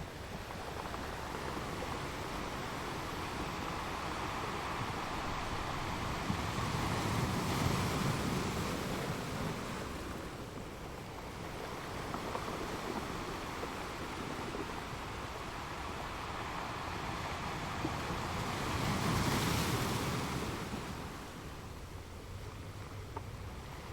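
Ocean waves breaking on a shore: a steady wash of surf noise that swells into two louder breaks, about a third of the way in and again near the end.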